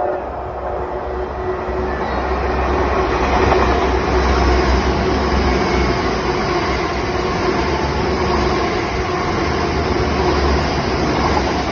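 Train passing close by: a loud rumble and rush of wheels on rail that builds over the first few seconds, then holds steady.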